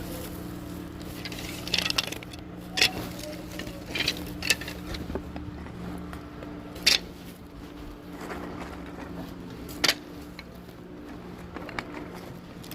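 Woodworking machinery in a sawmill running with a steady hum, with no cutting heard. Sharp knocks and clatters come several times over it, loudest about seven and ten seconds in.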